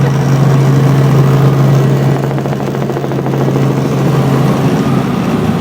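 Helicopter running: a loud, steady engine-and-rotor drone.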